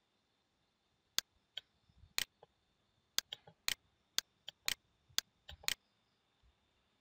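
Computer mouse button clicking, about a dozen short sharp clicks at irregular intervals, some in quick pairs, as PowerPoint design themes are picked.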